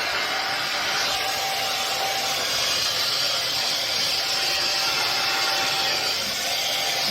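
Vacuum cleaner running steadily, an even rushing noise with a faint whine held throughout.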